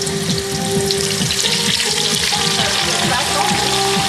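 Hot oil bubbling and sizzling vigorously as a whole turkey goes into the deep fryer, a dense, steady crackle with a constant low hum underneath; the oil is foaming up toward the rim of the pot.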